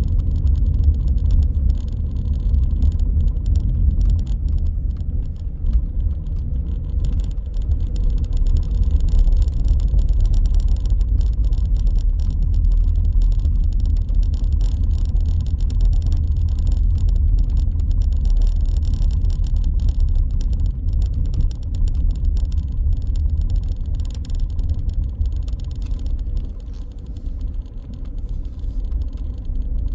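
Car driving on city streets: a steady low rumble of engine and tyre noise, easing off briefly near the end.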